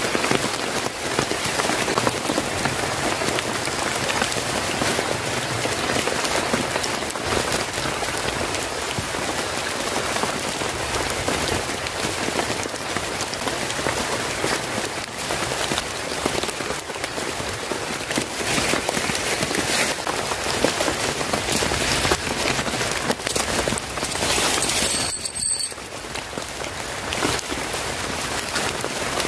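Steady heavy rain, an even hiss dense with separate drop hits. A few seconds before the end, a brief high-pitched whine appears over it, then the sound drops suddenly to a quieter rain.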